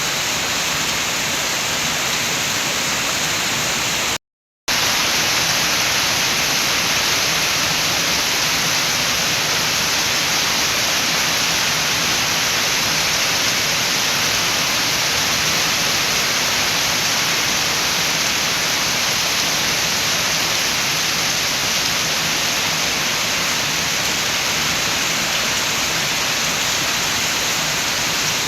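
Steady rain with wind, a dense even hiss. It cuts out to silence for about half a second a little after four seconds in, then resumes unchanged.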